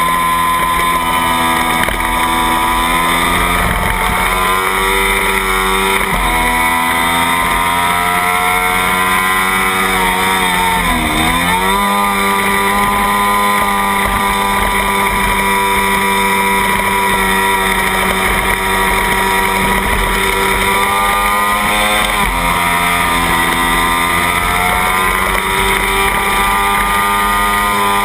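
Small Kawasaki Ninja parallel-twin race engine at high revs under full throttle, heard onboard. The pitch holds high with a few brief steps from gear changes, and about eleven seconds in it drops sharply and climbs back up through a corner.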